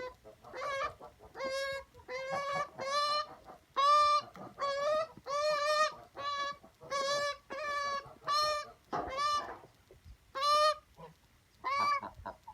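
A magpie giving a long series of short, repeated calls, about two a second, each a steady pitched note, with a brief break about ten seconds in.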